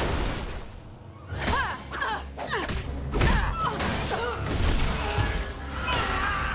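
Cartoon fight sound effects: a sudden heavy impact, then a run of further thumps and blows, over dramatic action music.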